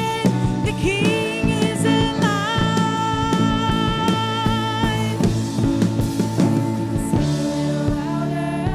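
Live worship band playing a song with drums, guitar and a singer holding long notes.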